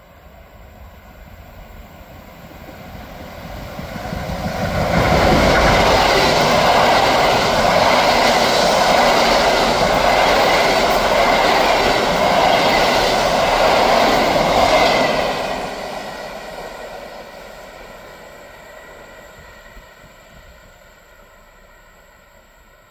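PKP Intercity passenger train, a locomotive hauling ICC coaches, passing on ballasted track. The rolling and wheel noise builds over a few seconds, stays loud for about ten seconds as the coaches go by, then fades away as the train recedes.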